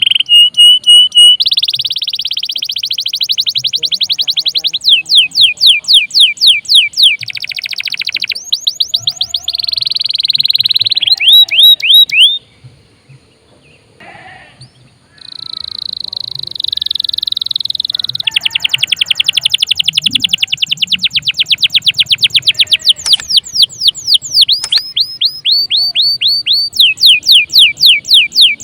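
Domestic canary in full song: a long string of loud, rapid trills, each a fast run of repeated high notes, switching to a new trill pattern every second or two. The song breaks off for a couple of seconds a little before halfway, then resumes.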